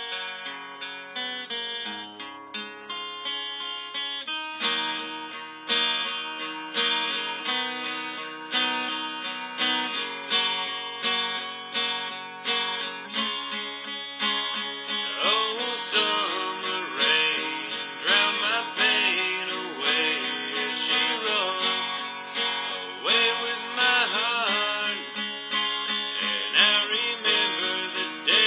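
Acoustic guitar music: plucked and strummed chords at a steady pulse, joined about halfway through by a wavering melody line that slides in pitch.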